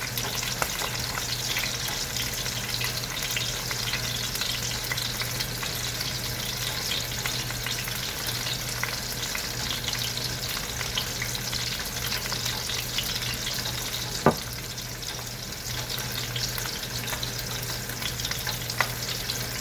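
Sausage frying in a hot pan, sizzling and crackling steadily over a low hum. A sharp knock about fourteen seconds in and a lighter one near the end.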